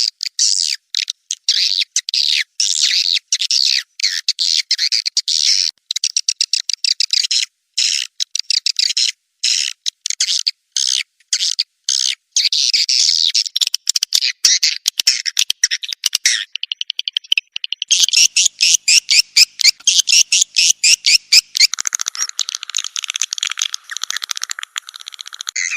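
Swiftlet lure call: dense, rapid chirping and twittering of swiftlets, the sound played to draw swiftlets into a swiftlet house to roost. About two-thirds through, the chirping gives way for a moment to a quick run of fast, even clicks before resuming.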